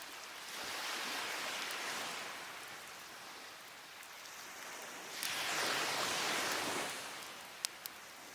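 Waves washing up the beach in two swells that build and fade away. Near the end come a couple of sharp pops from the burning wood of a fire.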